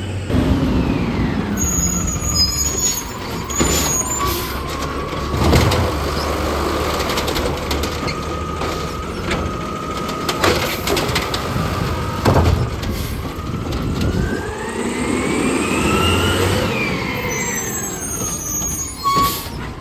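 Garbage truck working: a mechanical whine that glides down in pitch, holds steady, then rises and falls again near the end, over the truck's running engine. Several sharp metallic clanks come through it.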